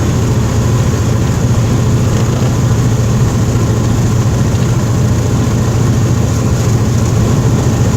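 Cessna 207's six-cylinder piston engine running steadily, a loud even drone with no change in pitch.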